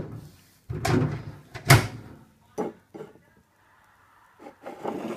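Microwave oven door being opened and handled: a series of sharp clunks in the first two seconds, the loudest near the two-second mark, then a few lighter knocks.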